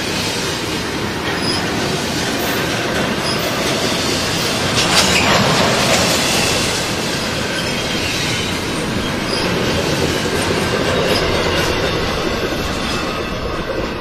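Double-stack intermodal freight train's container well cars rolling past close by: a steady, loud rumble and clatter of steel wheels on the rails, a little louder about five to six seconds in.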